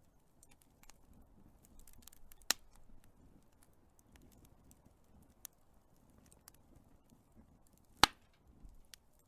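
Big wood fire crackling: sparse small crackles over a faint low rumble, with two sharp loud pops, one about two and a half seconds in and a louder one near the end.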